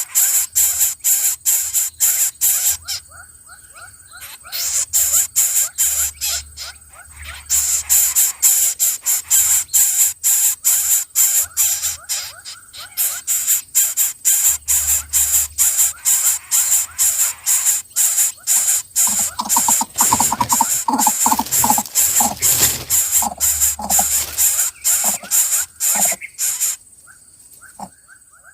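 Young bird-of-prey chicks giving rapid, repeated high-pitched calls, about four or five a second, pausing briefly now and then and stopping near the end.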